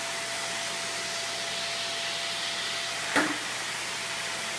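Vacuum cleaner running steadily, an even rushing hiss with a faint constant whine. About three seconds in, a brief sharp sound stands out over it.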